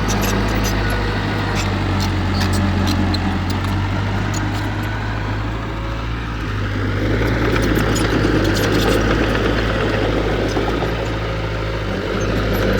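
Heavy earthmoving machine's diesel engine running steadily, getting a little louder and busier about seven seconds in, with faint clicks and clanks over it.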